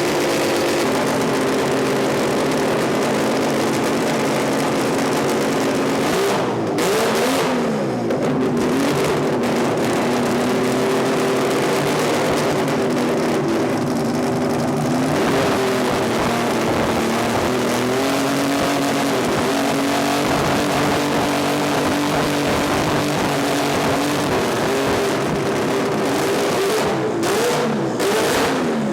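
Turbocharged 20B three-rotor rotary engine of a drag car revving hard at a standstill, very loud. It is held at high revs, and its pitch dips and climbs back several times.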